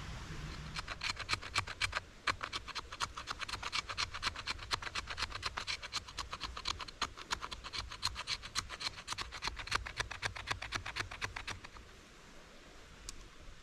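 Rapid, regular scraping strokes, about four or five a second, as of a tool worked back and forth over wood. They stop abruptly near the end, leaving a quieter stretch with a couple of faint clicks.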